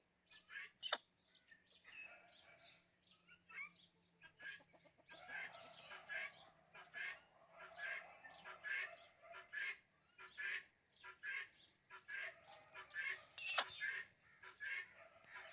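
Several birds calling at once: a busy, overlapping run of short clucking calls and chirps that grows denser about five seconds in.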